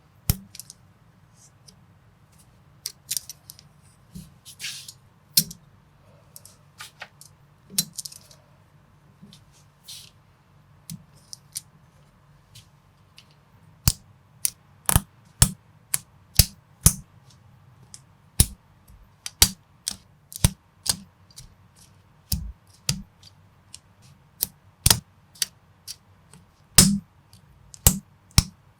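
Plastic LEGO-compatible bricks clicking and snapping together during assembly, with brief rattles of loose pieces in the first half. From about halfway the clicks come steadily, about one to two a second.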